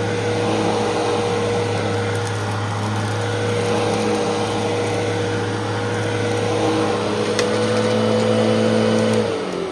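Fantom Fury vacuum cleaner's motor running steadily, then switched off near the end, its pitch falling as it winds down.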